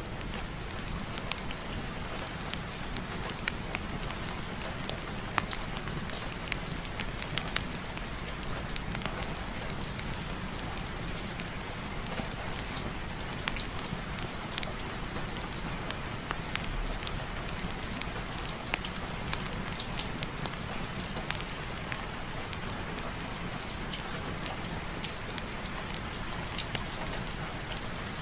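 Steady rain falling, with scattered sharp crackles of a wood fire burning in a fireplace.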